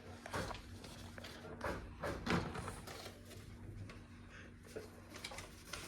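A few knocks and rustles of a bird cage and its lining paper being handled during cleaning, over a faint steady hum.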